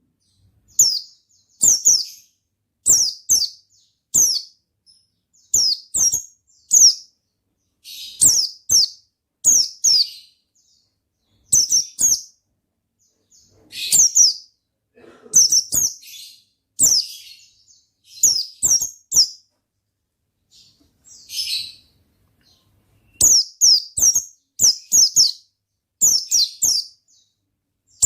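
White-eye (pleci) singing in full voice: a quick run of short, high chirping phrases of falling notes, about one a second, with a couple of brief pauses.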